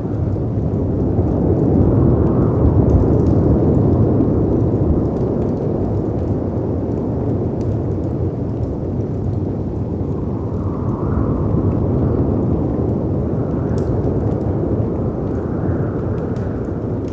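Mixed storm ambience: a deep rumble of wind and surf that swells and eases, loudest about two to three seconds in, with gusts rising and falling in pitch in the second half. Sparse sharp crackles and pops of a wood fire sit over it.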